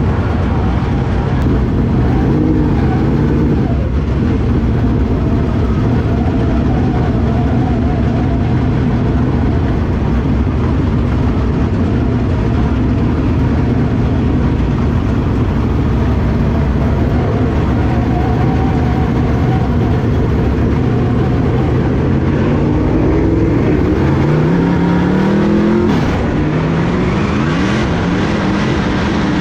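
Dirt-track race car engines running hard on the track, a loud steady drone. In the last few seconds the engine note rises and falls several times as the cars accelerate.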